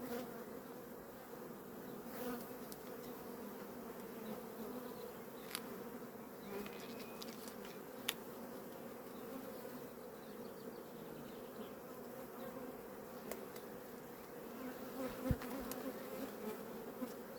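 Honeybee colony buzzing steadily from an open hive, a dense hum of many bees. A few sharp clicks break through, and there is a low knock near the end.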